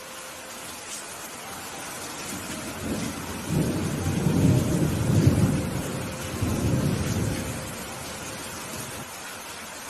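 Steady rain falling, with a roll of thunder rumbling in about three and a half seconds in, peaking around five seconds and fading out by about eight seconds.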